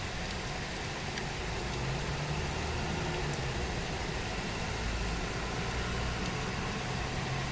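Steady rain hiss, with a low engine hum, like a vehicle idling, that grows louder about two seconds in.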